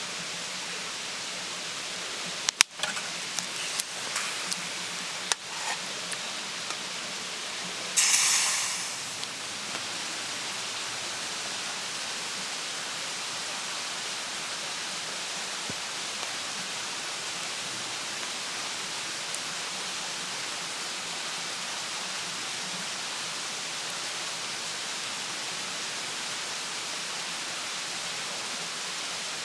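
A steady rushing hiss. Sharp knocks and clicks fall in the first six seconds, and about eight seconds in a short loud hiss fades away.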